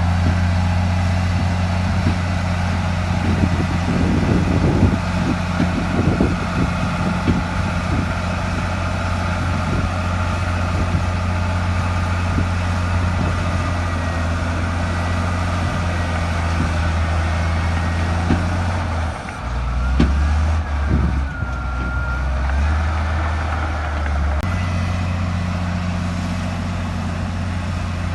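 Crawler bulldozer's diesel engine running steadily under load, with clanking knocks for a few seconds early on. About two-thirds through, the engine note drops lower for a few seconds, with a gliding whine above it, then returns to its earlier pitch.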